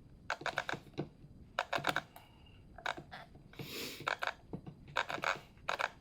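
Quick clusters of small sharp clicks, three or four at a time, repeated several times, from the parts of a cordless chainsaw's bar and spring-loaded chain tensioner being handled. A brief hiss comes a little after the middle.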